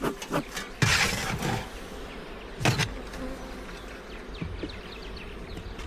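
Honey bees buzzing around an opened hive during an inspection, with two brief louder noises from handling, about a second in and just under three seconds in.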